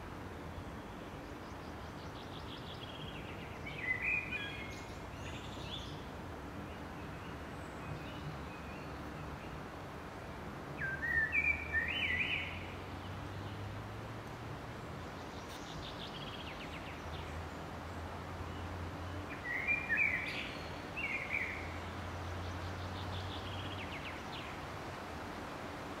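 A songbird singing the same short phrase three times, about every eight seconds: a quick run of falling notes ending in a louder flourish. Under it runs a steady low background hum.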